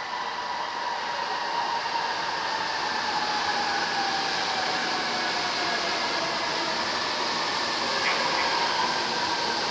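Rail train running, a steady rumble with a motor whine that slowly falls in pitch as the train slows.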